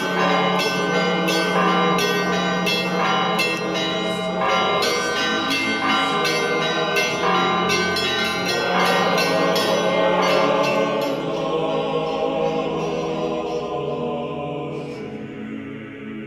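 Orthodox church bells ringing, many bells struck in a quick, dense peal over a steady low hum from a large bell. The strikes thin out and the ringing fades away over the last few seconds.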